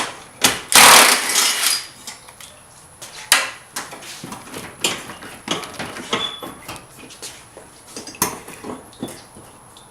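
Metal hand tools clinking and rattling: scattered sharp clicks and knocks, with a louder clatter lasting about a second near the start, as a socket wrench works on the headlight's 10mm bolts.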